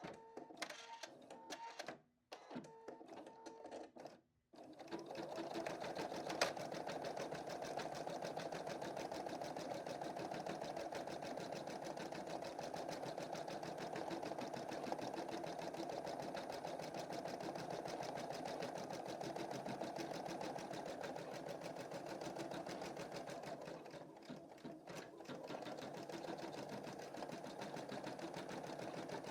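Embroidery machine stitching out a design: a fast, steady needle-and-hoop rhythm. For the first few seconds it is quieter and broken up by short pauses, then the stitching settles into a steady run about four and a half seconds in.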